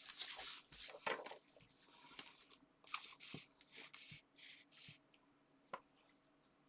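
Paper and card being handled: faint rustling, then a quick run of five or six short scraping strokes and a few light taps.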